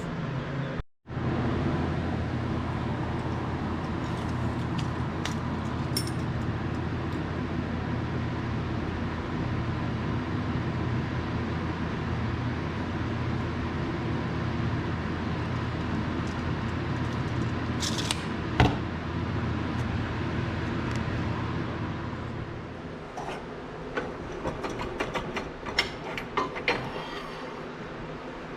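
A metal-cutting shop machine runs steadily, cutting off a piece of chromoly tubing, and stops about 23 seconds in. Light clicks and clinks of small metal parts being handled follow.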